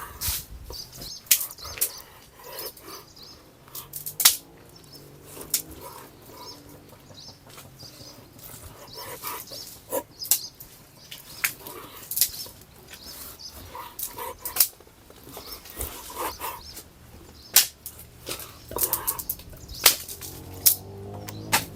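Irregular sharp knocks and clicks, one or two a second, with faint bird chirps between them.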